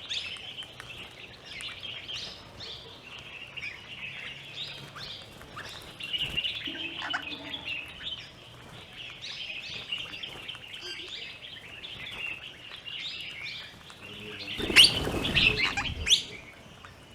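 Many short, high bird chirps and calls, from birds at a feeding spot. Near the end a loud, noisy rustling burst lasts about a second and a half.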